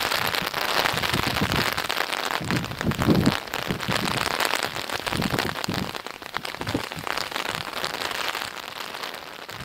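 Heavy rain falling, a dense hiss of drops with many small sharp ticks, easing off in the last few seconds.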